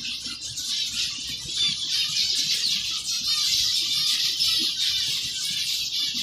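A colony of zebra finches calling, with many short high chirps overlapping in a continuous chatter.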